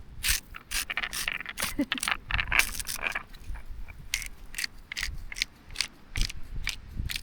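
Metal clinking and scraping on a small charcoal kettle barbecue as food on the grill is handled, heard as a string of sharp, irregular clicks, a few each second.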